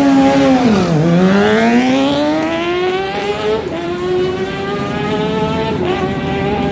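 Superbike engine revving on a race track: the revs fall sharply for about a second, then climb steadily under acceleration, with two brief dips at gear changes.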